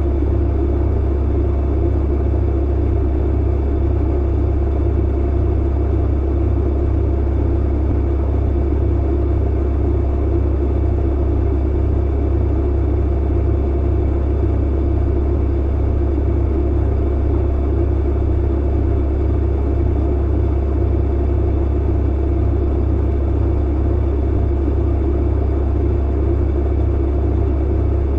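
Clothes dryer running steadily: a loud, constant low rumble of the tumbling drum and motor with a steady hum, unchanging throughout.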